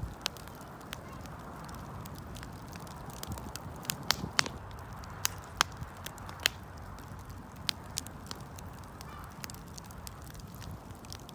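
Wood campfire burning: a steady low rustle of flames with irregular sharp crackles and pops from the burning wood, a few louder pops near the middle.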